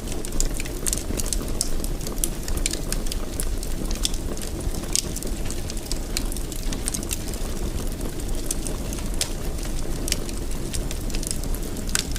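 Fire in a fireplace crackling, with frequent small sharp pops over a steady low rumble.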